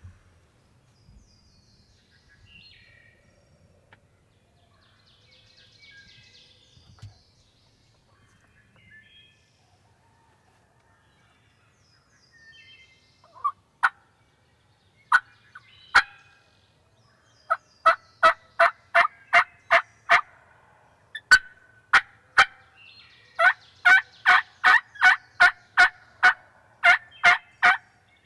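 Turkey yelping: after faint songbird chirps, a few single sharp notes about halfway through, then two long runs of evenly spaced yelps, about two to three a second, the second run the longer and louder.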